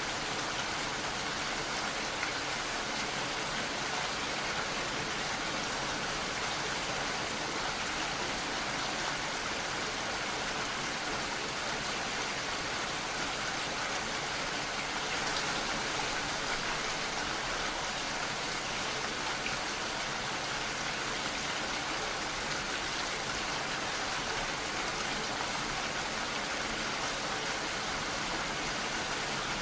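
Steady rain falling, an even continuous hiss of many drops with no thunder or other events.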